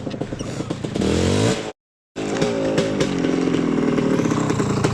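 Dirt bike engine revving, its pitch climbing for about a second before the sound cuts out abruptly for a moment. It then resumes at varying pitch.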